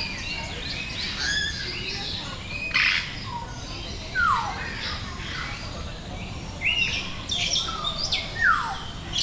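Many birds calling at once in an aviary chorus: overlapping chirps and whistles, a falling whistled call twice, and a few short harsh squawks.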